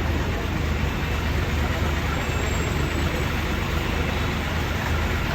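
Scania coach engine running steadily on the road: a constant low hum under even road and wind noise.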